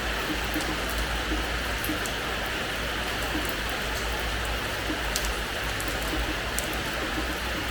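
Steady rain falling on a hard terrace floor: an even hiss of rainfall with occasional individual drops ticking.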